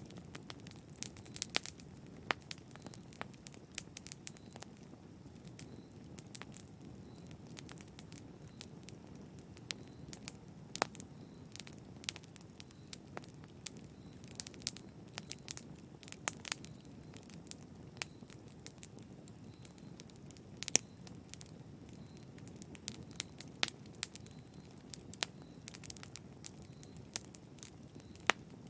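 Wood fire crackling in a fireplace: irregular sharp pops and snaps, some close together and some spaced out, over a low steady rumble of the flames.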